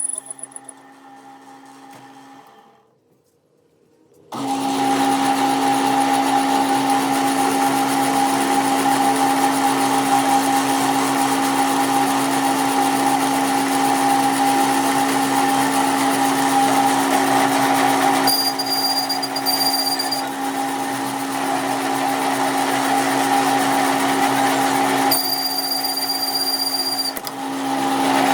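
A shop machine or power tool starts up about four seconds in and runs steadily, a constant hum under a noisy whir. A thin high whine joins in twice, briefly.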